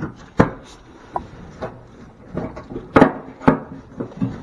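A handful of sharp knocks and clunks, irregularly spaced, as parts are handled while a truck's radiator and its lines are worked loose; the loudest pair comes about three seconds in.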